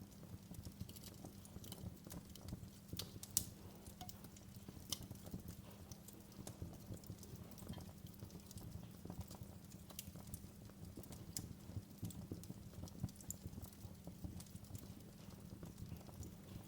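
Wood fire crackling in a fireplace: irregular small pops and snaps over a low, steady rumble, with one sharper pop about three seconds in.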